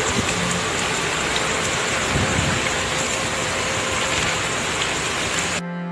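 Heavy downpour: a steady hiss of rain pouring onto flooded ground, broken off abruptly near the end.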